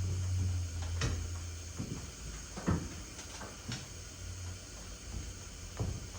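Scattered light knocks and clunks of objects being handled and set down, about half a dozen, the loudest just under three seconds in, with a low hum during the first second.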